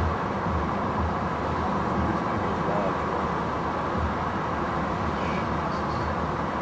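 A vehicle driving, with steady engine and road noise and a low rumble.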